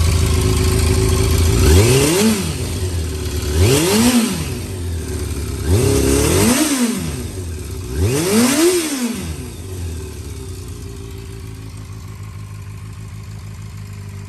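Yamaha FZ400's inline-four engine, fitted with a Moriwaki ZERO aftermarket exhaust, idling and then blipped four times, about two seconds apart, each rev rising and dropping back to idle. After the last blip it settles back to a steady, quieter idle.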